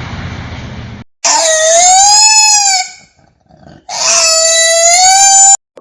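Two long animal calls, each arching up and then down in pitch, with a gap of about a second between them. Before them, a stretch of noise cuts off about a second in.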